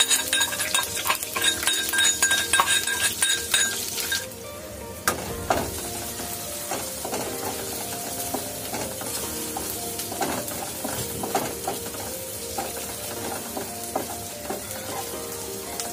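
Crushed garlic and Thai chilies sizzling in hot oil in a nonstick pan, stirred with a spatula that scrapes and knocks against the pan. The frying is loudest for the first four seconds, just after the paste goes into the oil, then settles to a steadier, quieter sizzle with occasional scrapes.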